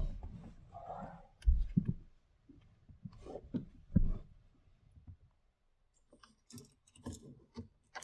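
Irregular clicks and knocks with a few dull thumps: objects being handled in the confined space of a vehicle's interior.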